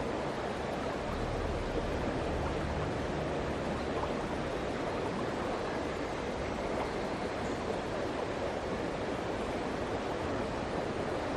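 Steady rushing of a flowing river, an even wash of water noise without pause.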